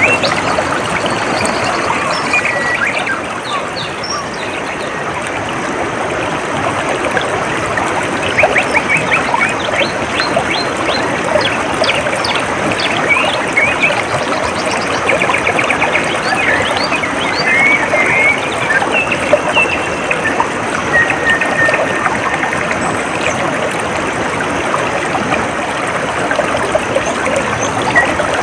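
Water trickling and splashing steadily, with small birds chirping and trilling over it, the birdsong busiest through the middle.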